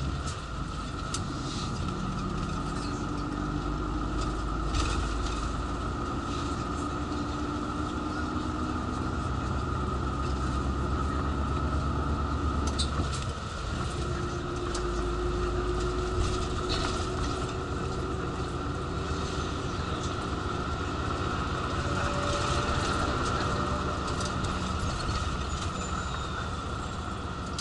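Bus engine and road noise heard from inside the cabin, running steadily with the engine note rising slowly as it accelerates, twice. Occasional short clicks and rattles are heard over it.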